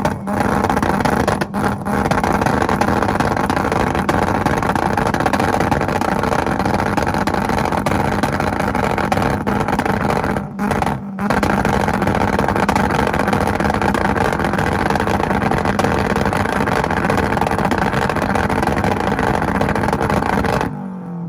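Mazda Miata's four-cylinder engine held at steady high revs on a two-step limiter, a loud, unbroken note with a few brief dips in the first half. Near the end it is let off and the revs fall away.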